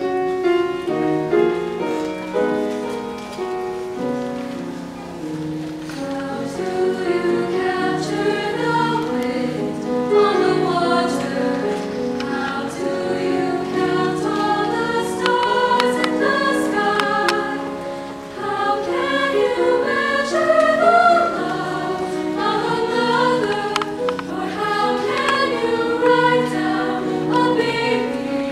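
Choir singing in several-part harmony, with many voices holding and moving between notes throughout.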